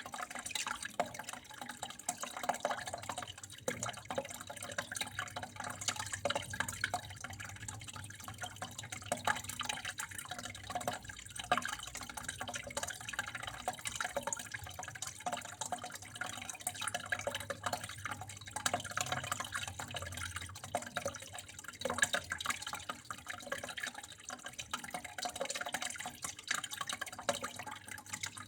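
Water running and dripping steadily: a continuous trickle with many small splashes and drips throughout.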